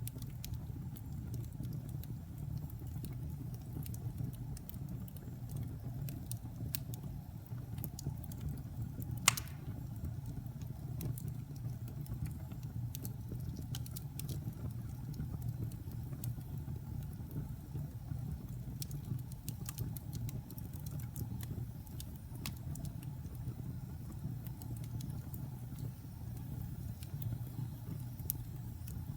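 Wood fire burning in a fireplace: a steady low rumble of flames with scattered crackles and pops, one sharper and louder pop about nine seconds in.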